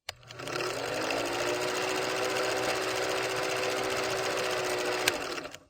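Small single-cylinder motorcycle engine running steadily with a fast, buzzing note. Its pitch eases up over the first second, holds even, then fades out near the end.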